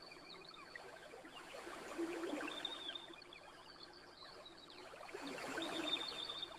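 Campfire crackling with many small, scattered pops over a soft wash of noise that swells twice, about two seconds in and again near the end.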